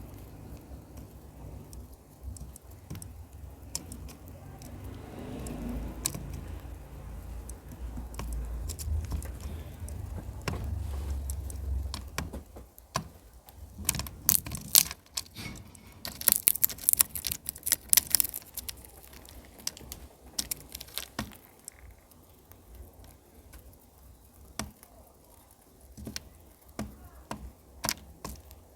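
Cockatiel cracking and husking sunflower seeds with its beak: irregular sharp clicks and cracks, coming thick and fast about halfway through.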